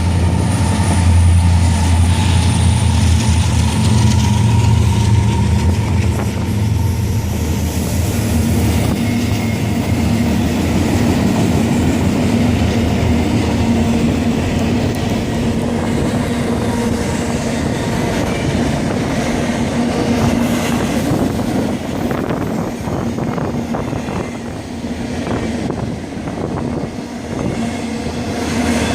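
A Union Pacific SD70M diesel locomotive's engine running heavily as it passes in the first few seconds, followed by the double-stack container cars rolling by with a steady wheel rumble and clickety-clack over the rail joints.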